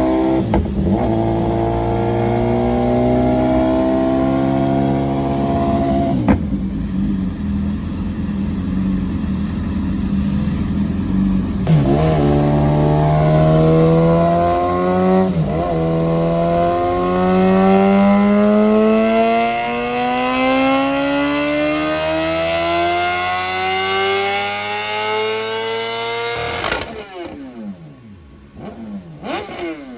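Car engine pulling hard under load, its pitch climbing in stages with several short breaks like gear changes, then one long steady climb that cuts off suddenly about 27 seconds in. After the cut the engine note falls away.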